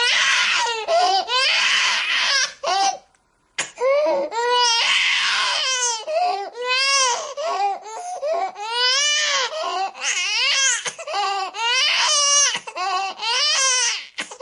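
Baby crying hard: a string of high-pitched wails, each rising and falling in pitch, with a short break for breath about three seconds in.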